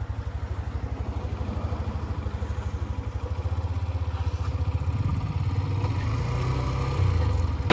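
Motorcycle engine idling with a fast, even low chug. From about three and a half seconds in, it picks up revs and gets steadily louder.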